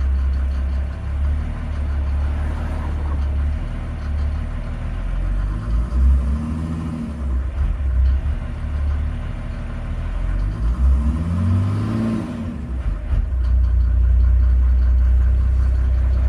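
Mercedes-Benz G350 TD's turbodiesel engine running shortly after a cold start, idling with two revs, about six and eleven seconds in, each rising and falling back to idle.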